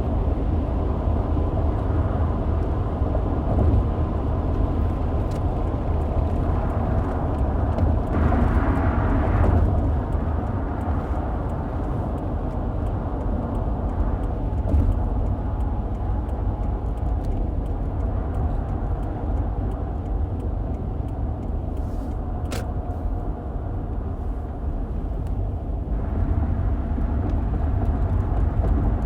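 Car driving along: a steady low rumble of road and engine noise. A louder rush rises higher in pitch for a couple of seconds about eight seconds in, and a single sharp click comes about twenty-two seconds in.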